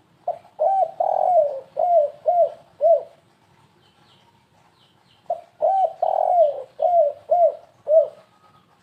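Spotted dove (tekukur) cooing in two phrases a couple of seconds apart. Each phrase is a quick, stuttering run of about six low, arched coos in the 'kuk 3 gagap' style, used as a lure call for wild doves.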